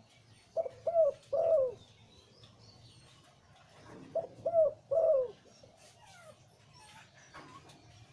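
Male spotted dove cooing: two three-note coo phrases, about three seconds apart, each ending on a longer, falling note. Faint chirps of small birds sound between them.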